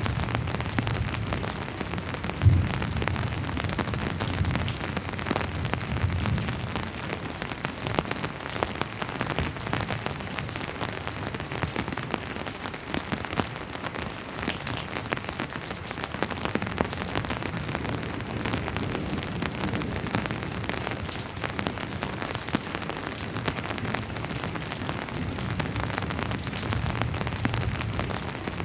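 Steady rain falling on a surface, a dense even patter. Low rumbles come and go, and there is one sharp thump about two and a half seconds in.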